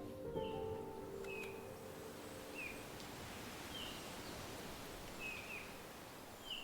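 Short high chirps from a bird, repeated every second or so, over a steady outdoor hiss. The last notes of music fade out in the first second.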